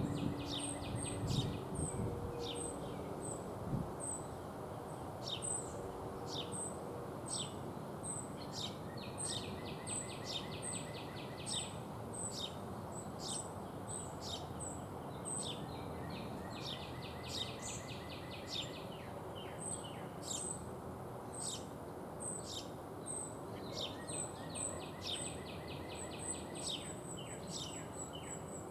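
Songbirds calling: a high, thin chip repeated about twice a second, mixed with several fast trills and quick downward-sweeping notes from other birds, over a steady low background noise.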